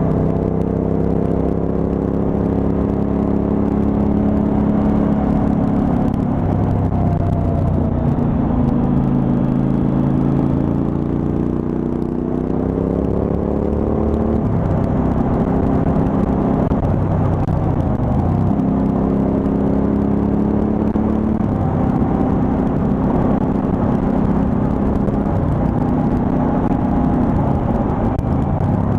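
Suzuki V-Strom 1000's V-twin engine running on the road: the note climbs as the bike accelerates, drops sharply at gear changes about 14 and 18 seconds in, then holds steady at a cruise.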